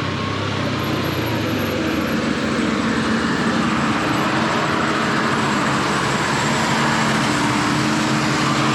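Honda XR150's single-cylinder engine running steadily under way, with a broad rushing noise over it.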